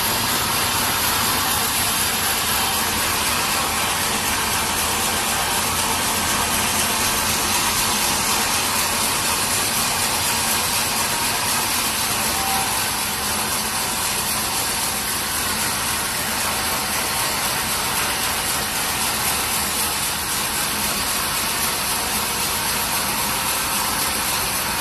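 Sawmill machinery running steadily, a dense even noise with no break.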